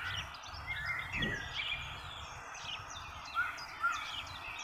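Small birds chirping in the background: many short, quick calls overlapping.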